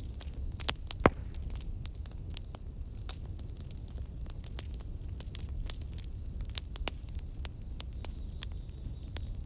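Wood fire burning in a fireplace, crackling with irregular sharp snaps and one louder pop about a second in, over a low steady rumble.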